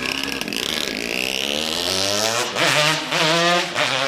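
Yamaha RD 135 two-stroke motorcycle engine revving. Its pitch climbs over the first two seconds, then it gives several quick, loud throttle blips.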